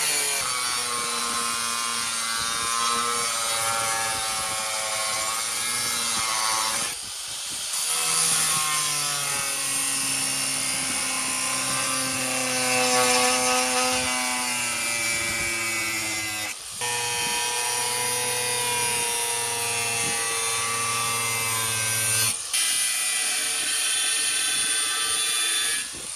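Small electric power tool running with a steady whine and a gritty hiss, as when grinding or cutting metal. The sound breaks off briefly three times, and the whine settles at a slightly different pitch in each stretch.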